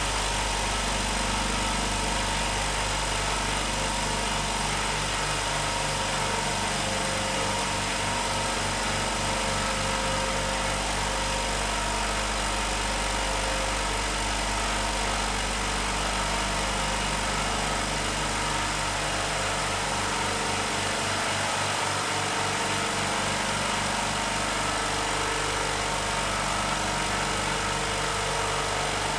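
HBM 6 hp, 150-litre oil-free low-noise air compressor running steadily as it pumps its tank up toward 8 bar. Its electric motors and pump run at an even pace, with a low, regular pulsing.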